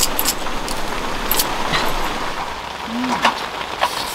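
Steady rain falling on a camping shelter, with a few light clicks and a brief voice sound near the end.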